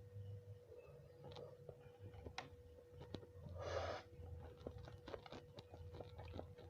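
Quiet eating sounds of a person eating nasi kucing: scattered small mouth and chewing clicks, with a short noisy rustle lasting about half a second around the middle. A faint steady hum runs underneath.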